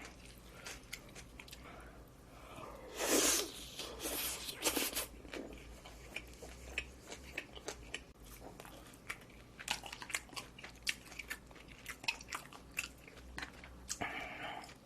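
Close-miked mouth sounds of a person eating: chewing and biting food, with a few louder crunchy bites about three to five seconds in and small wet clicks throughout.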